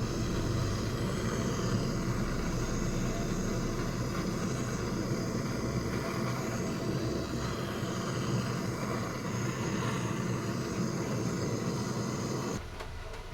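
Gas torch burning steadily as it heats the engine case to seat new crankshaft bearings by shrink fit. The sound stops shortly before the end.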